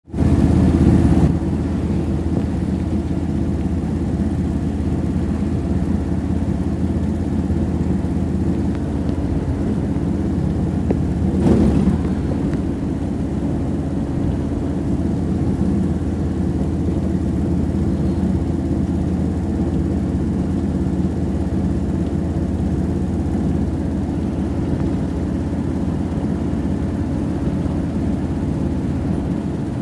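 A road vehicle running steadily, its engine hum and road noise holding even throughout, with a brief louder rush about eleven seconds in.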